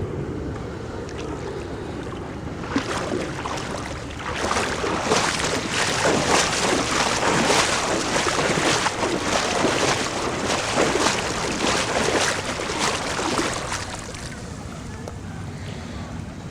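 Floodwater splashing and sloshing heavily for about ten seconds in the middle, in quick irregular strokes, over a steady low rumble.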